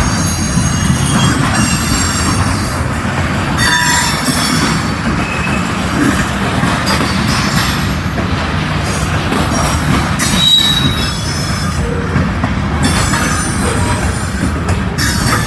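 Freight train cars rolling past: a steady rumble of the cars, with wheels squealing on and off in high thin tones several times.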